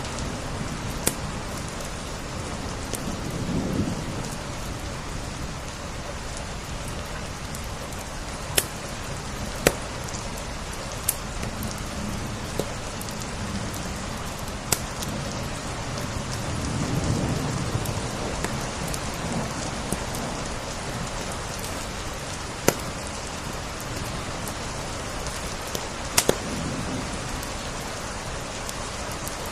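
Steady rain with single sharp crackles from a wood fire every few seconds, and two low rumbling swells, one a few seconds in and one just past the middle.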